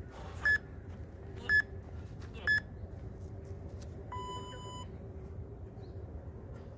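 Interval workout timer counting down: three short beeps a second apart, then one longer, lower beep that signals the start of a 15-second work period.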